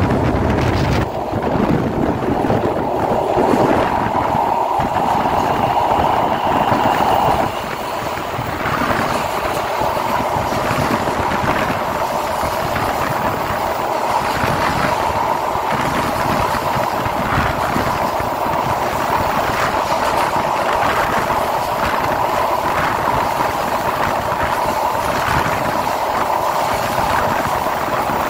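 Passenger train running along an elevated rail viaduct, heard from the coach: a steady rolling noise of steel wheels on rails, louder for the first seven seconds or so, then a little quieter with faint regular clicks.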